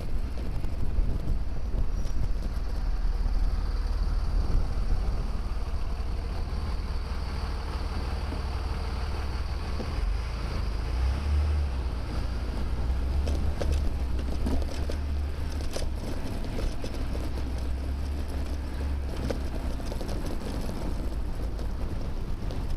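Wind buffeting the microphone of a bicycle-mounted camera while riding, a steady low rumble, with road and traffic noise under it.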